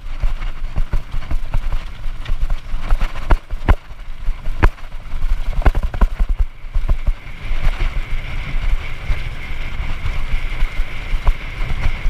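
Hardtail mountain bike rattling and knocking over loose rocks on a steep descent, with tyre rumble and irregular sharp clacks. A steady high squeal joins about halfway through and holds.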